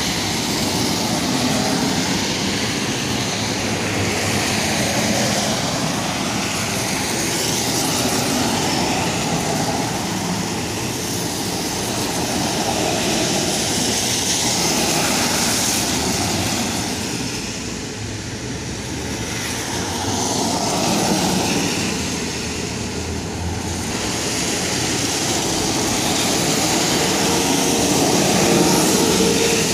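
Road traffic passing on a wet road: a steady hiss of tyres on water, swelling and fading as vehicles go by one after another.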